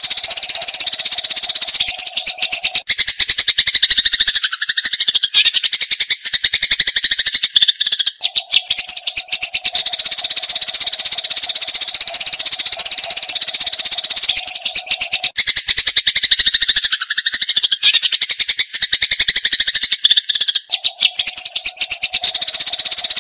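Eurasian tree sparrows chattering in a fast, unbroken stream of high chirps, the rattling squabble calls of sparrows fighting. A steady low tone comes and goes behind them, and the whole pattern repeats about every 12 seconds, as a looped recording does.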